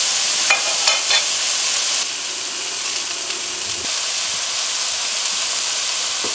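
Pheasant and vegetable stir-fry sizzling in hot olive oil in a cast iron pan: a steady hiss with a few brief crackles about a second in. The sizzle settles slightly quieter at about two seconds.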